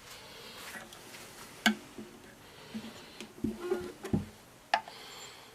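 Irregular small clicks and knocks from objects being handled by hand, with two sharper clicks and a few short dull thuds.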